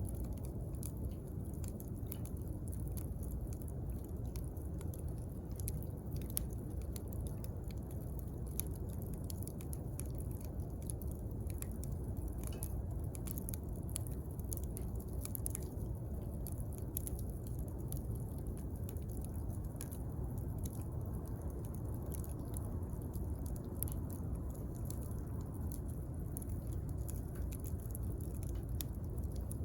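Wood fire crackling, with many small irregular pops and snaps over a steady low rush of the burning fire.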